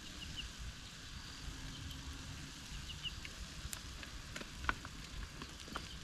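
Rain pattering steadily in the forest, with scattered sharp drips and ticks and a few faint, short high chirps.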